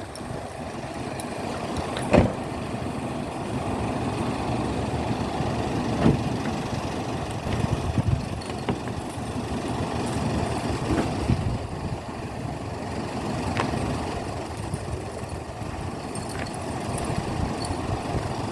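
A boat's motor running steadily as it carries the boat through the swamp channels, with a few sharp knocks along the way.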